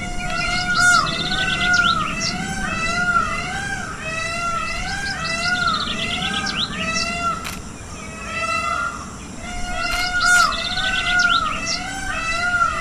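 Birds calling: a steady run of short, arched whistled notes about twice a second, with quick chattering trills above them.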